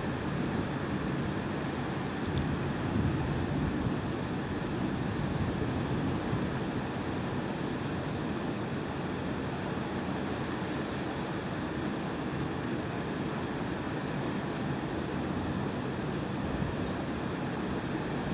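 Steady low background rumble with an insect, likely a cricket, chirping in a high, even pulse about three times a second, pausing briefly around a third of the way in.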